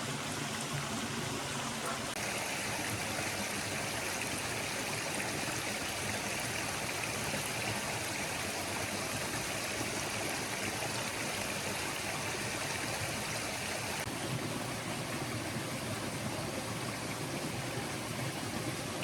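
A forest stream flowing: a steady rush of running water, its tone shifting slightly about two seconds in and again later.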